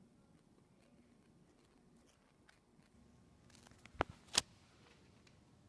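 Faint low background hum, then two sharp clicks about half a second apart, about four seconds in.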